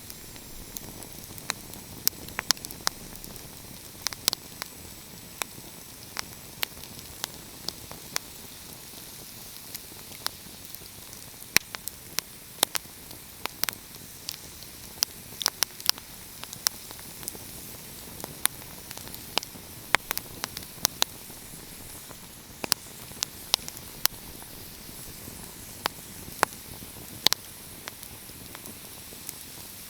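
Wood fire crackling: irregular sharp pops and snaps, several close together at times, over a steady soft hiss.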